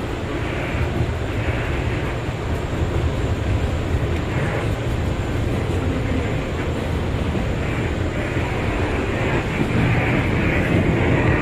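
Bombardier R179 subway car running along the track, heard from inside: a steady rumble with wheel and rail noise, growing a little louder in the last few seconds.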